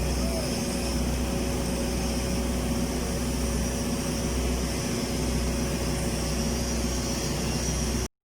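Steady machinery drone on a welding job, an even noise with a constant low hum running through it. It cuts off abruptly near the end.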